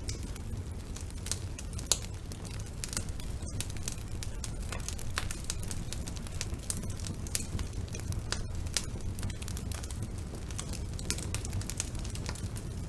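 Wood burning in a fireplace: scattered crackles and pops over a low, steady rumble of the flames, with one sharper pop about two seconds in.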